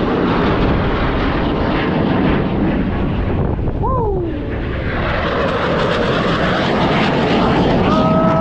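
Loud jet aircraft roar passing overhead. It dips briefly about four seconds in and rises again, with a falling whine near the end as the jet goes by.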